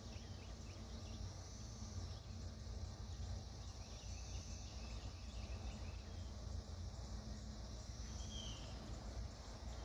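Low, steady rumble and hum of distant diesel locomotives working up a grade toward the listener, with insects chirping over it.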